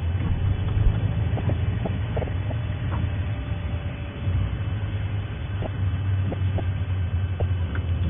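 A vehicle engine running with a low, steady rumble, with a few faint scattered ticks above it.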